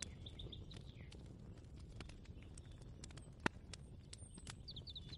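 Kitchen ambience: scattered light clicks and clinks over a steady low rumble, with one sharper knock about three and a half seconds in. Short high chirping notes come near the start and again near the end.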